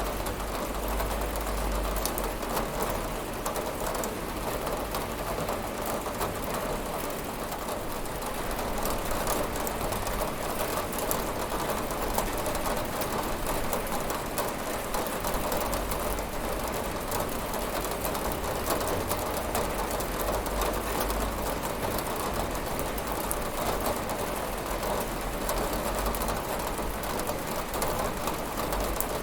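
Steady rain on a window: an even hiss of falling rain with fine pattering drops and a low rumble beneath.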